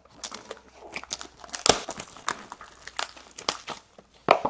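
Plastic wrapping on a box of 15-16 Contours hockey cards crinkling and tearing as it is unwrapped, in quick, irregular crackles.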